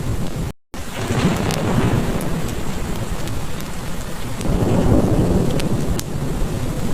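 Heavy rain falling steadily under low rolling thunder that swells twice, with scattered sharp crackles from a wood fire. The sound cuts out completely for a split second about half a second in.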